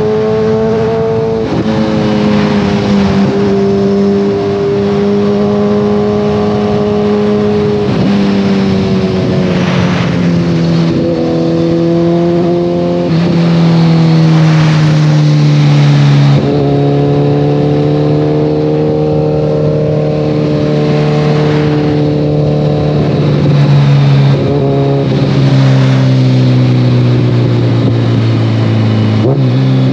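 2014 Kawasaki ZX-14R's inline-four engine through a full Brocks Alien Head 2 aftermarket exhaust, riding along. The exhaust note drifts slowly in pitch and steps abruptly several times, about every few seconds, as the revs change.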